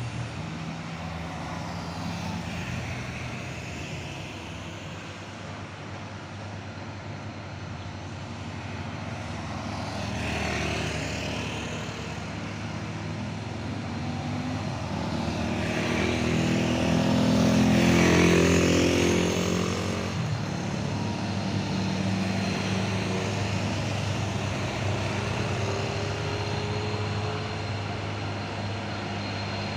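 Diesel engines of heavily loaded trucks labouring up a steep climb, with a steady drone throughout. One passes close around ten seconds in, and a louder one about eighteen seconds in.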